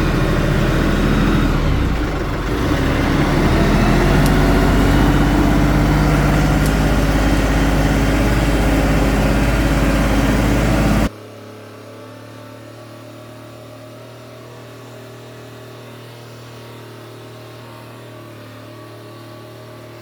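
Kioti NS5310 tractor's three-cylinder diesel engine running hard under load while working the hydraulic tree puller. It dips briefly about two seconds in, then rises again. About halfway through, the sound cuts off abruptly to a much quieter steady hum.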